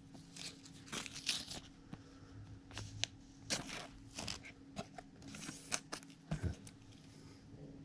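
Trading cards and foil pack wrappers being handled up close, a series of irregular rustles and crinkles as the cards are sorted through.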